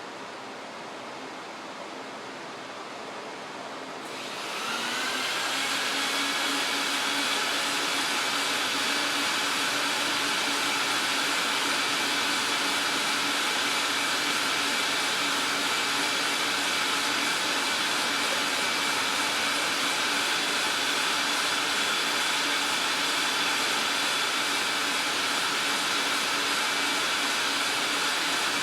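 A steady hiss, then an electric fan motor of the vacuum or blower kind spins up about four seconds in and runs steadily with a high whine.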